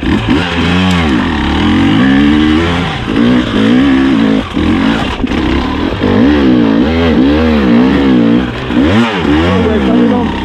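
Enduro dirt bike engine revving up and down over and over, the throttle opened and closed roughly once a second as the bike is ridden hard.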